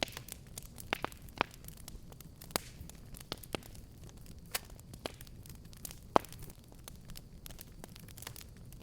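Wood fire crackling: irregular sharp pops and snaps over a low steady rumble of burning, with a loud pop about six seconds in.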